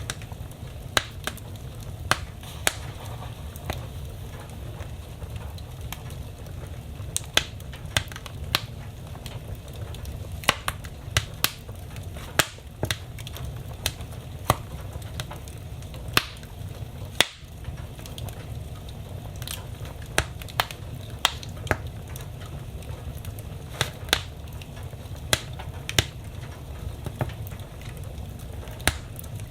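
Wood fire burning in a fireplace, crackling: irregular sharp pops and snaps, roughly one a second, over a steady low rumble of the flames.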